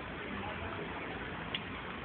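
Steady hiss of rain falling in a city street, with one sharp tick about one and a half seconds in.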